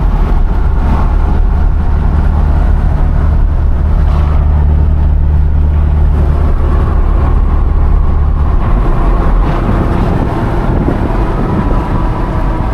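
Steady low rumble of road and engine noise inside a moving car's cabin, with a slight change in its low drone about nine seconds in.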